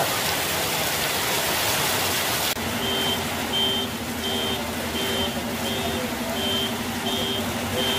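Heavy rain falling steadily. About two and a half seconds in, the sound changes abruptly to lighter rain with a vehicle's reversing alarm beeping about three times every two seconds over an idling engine.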